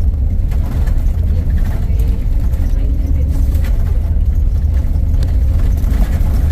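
A motor vehicle running, a steady low rumble with no clear change.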